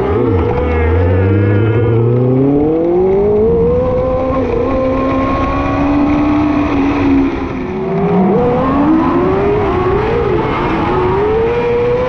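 Micro sprint car engine revving hard at racing speed. Its pitch climbs over the first few seconds and holds high, drops sharply as the throttle is lifted about seven to eight seconds in, then climbs and wavers again.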